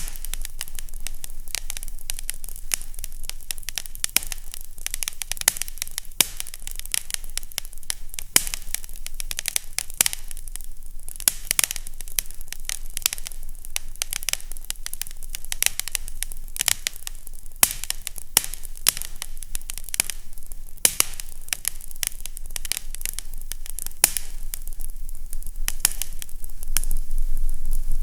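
Fireplace crackling: a dense run of small pops and snaps over a steady hiss, with a faint low hum underneath.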